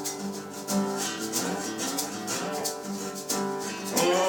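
Acoustic guitar playing with a shaker keeping a steady rhythm of quick ticks. A male voice comes in singing near the end.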